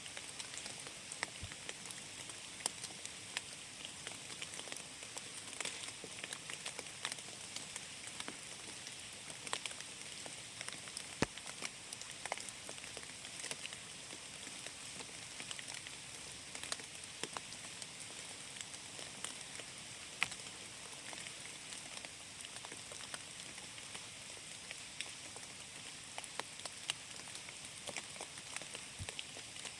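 Rain falling in a forest: a steady soft hiss of rainfall with many separate drops pattering on leaves and ground, a few of them louder taps.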